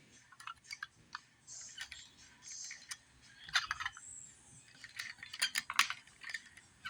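Small clicks, clinks and light knocks of toy cars being handled and set down on a surface, irregular, with busier clusters about halfway through and again near the end.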